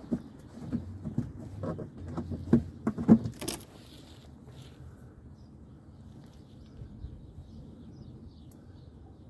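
Plastic push-pin clips being pressed into the wheel-well fender liner: a run of clicks and knocks over the first few seconds, the loudest two near the end of the run, then only faint background.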